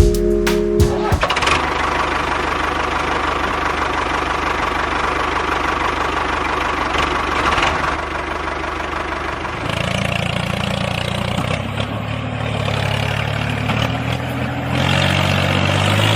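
Miniature RC tractor running: a steady mechanical motor noise. About ten seconds in it turns to a lower hum that steps up and down in pitch.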